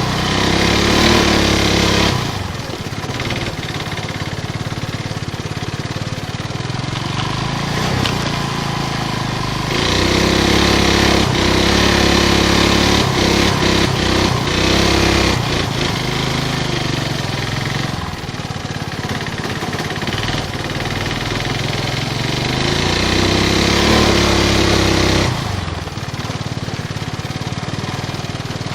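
Chinese 420cc Honda GX-clone single-cylinder engine in a Suzuki LT185 ATV, its valves and piston lightened, running hard. It goes louder at higher throttle for stretches of a few seconds (at the start, for about five seconds in the middle, and briefly near the end) and eases back in between.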